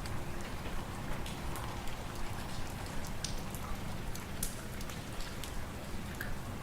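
Wood fire crackling in a fireplace, with scattered sharp pops over a steady low wind rumble.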